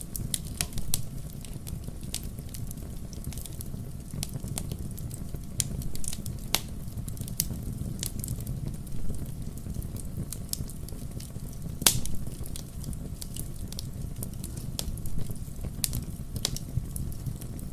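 Wood fire crackling with irregular sharp pops over a steady low rumble of flames, with two louder pops, about six and twelve seconds in.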